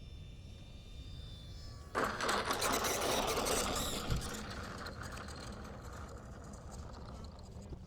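An RC airplane's motor and propeller buzzing up suddenly about two seconds in, then easing back off over a few seconds.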